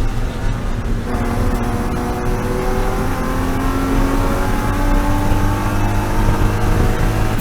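BMW E36 M3 race car's straight-six engine under full acceleration. A gear change comes about a second in, then the revs climb slowly and steadily.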